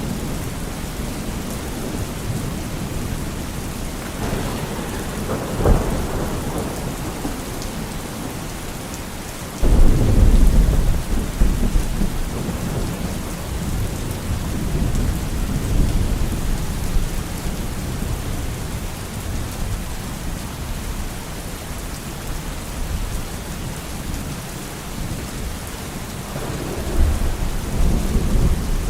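Steady rain with thunder: a rumble ending in a sharp crack about five seconds in, then a sudden loud thunderclap about ten seconds in that rumbles on for several seconds, and another rumble near the end.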